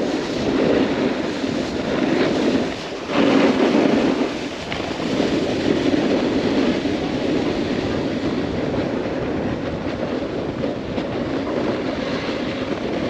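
Snowboard sliding and carving over packed snow, a continuous rough scraping rumble with wind rushing over the helmet-mounted camera's microphone.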